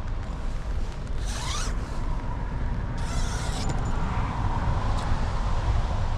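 Steady rumble and hiss of heavy rain and storm wind around a parked kei van, with two short swishing hisses, about a second in and about three seconds in.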